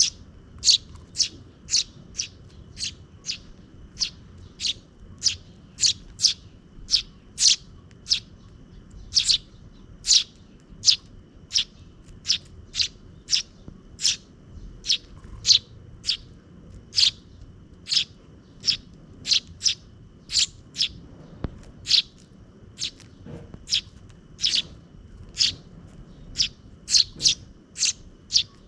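Sparrows chirping: short, sharp, high chirps repeated about twice a second without a break, over a faint steady high tone.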